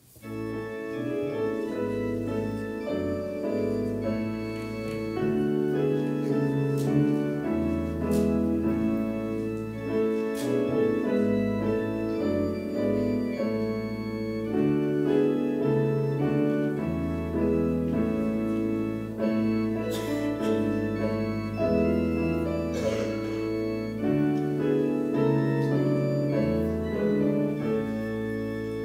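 Organ playing a prelude: sustained chords over a slowly moving bass line.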